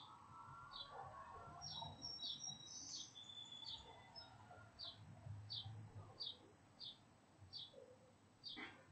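Small birds chirping: one repeats a short, high chirp about twice a second, while another gives a few higher whistled notes about two to three seconds in. A faint low rumble runs underneath.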